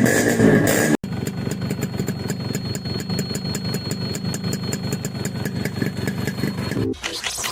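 Motorcycle engine running steadily, with an abrupt cut about a second in and another near the end, and a thin steady high whine over it.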